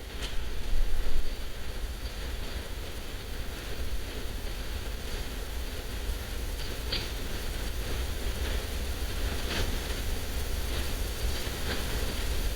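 Steady rain heard from inside a house, a constant hiss with scattered sharper drop taps and a deep low rumble underneath. It swells louder for about a second, about a second in.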